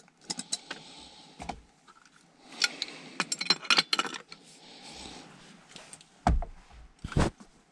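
Metal wrenches clinking and clattering against a furnace gas valve and its manifold pipe as the tight valve is worked loose. There is a run of quick clinks in the middle and two heavier knocks near the end.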